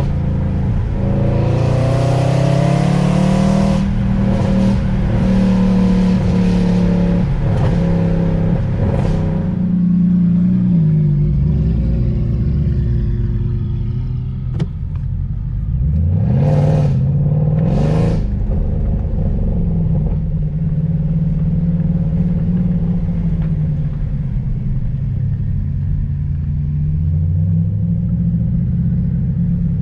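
A high-performance car engine pulling hard and climbing through the gears for the first ten seconds or so, then easing off. About sixteen seconds in come two sharp rev blips, after which the engine settles into a steady cruise.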